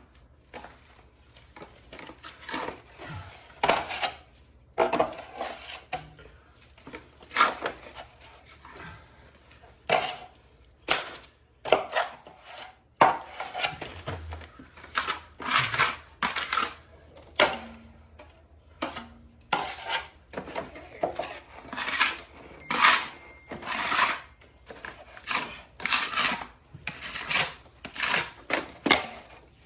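Steel trowel scraping and spreading quick-setting joint compound over a plaster wall, in many short strokes at an irregular pace.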